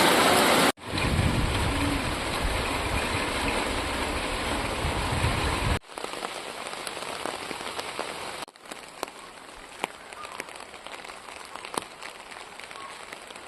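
Steady rain falling, cut together from several recordings: the sound changes abruptly about a second in, near six seconds and near eight and a half seconds. The later stretches are quieter, with single drops heard as sharp ticks.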